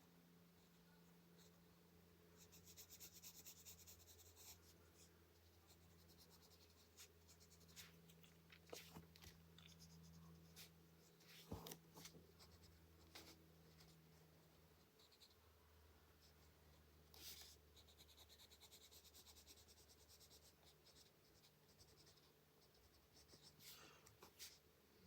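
Faint colored pencil strokes scratching on paper, in a few short runs of rapid strokes with small taps between, over a low steady hum.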